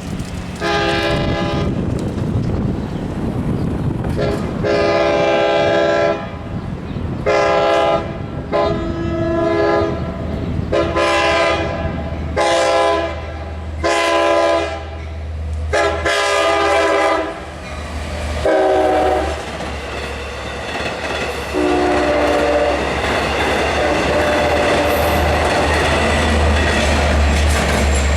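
Long Island Rail Road train horn sounding a multi-note chord in a string of about nine long and short blasts, the grade-crossing warning signal, the last ones shorter and fainter. Under and after them the train passes with a steady low rumble and wheel clatter that swells near the end.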